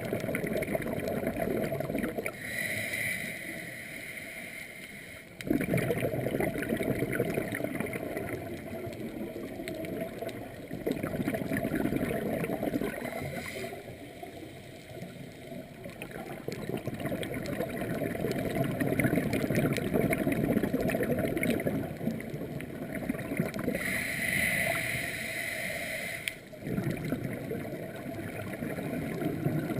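Scuba diver breathing through a regulator underwater: long stretches of exhaled bubbles gurgling, broken by inhales roughly every ten seconds, two of them a clear hiss through the regulator.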